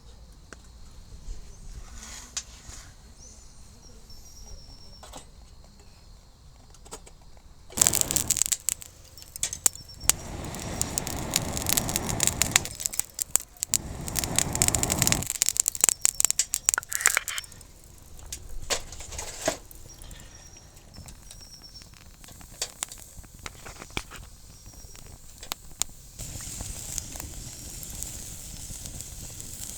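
Insects chirping faintly. Then, for about ten seconds, loud rustling and scraping with many small clicks, like things being handled, before it drops back to quieter handling noises.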